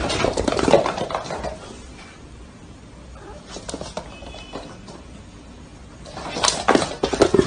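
A cat's paws skidding and scrabbling on a smooth floor, with sharp knocks. It is busiest in the first second or so and again about six to seven seconds in, with a quieter stretch between.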